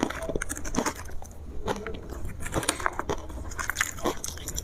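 Ice made with matcha being bitten and chewed: an irregular run of sharp cracks and crunches, several a second.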